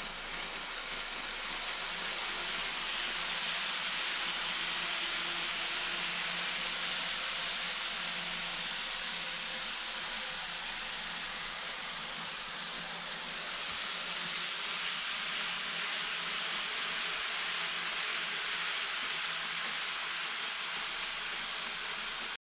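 An N-gauge model train, a TOMIX Tokyu 8500 series set, running on its track: a steady hiss of wheels on rail with a low motor hum. It swells a little and eases off again, then cuts off suddenly near the end.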